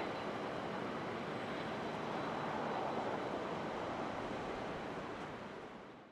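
Jet aircraft engine noise: a steady roar with a faint high whine, fading out near the end.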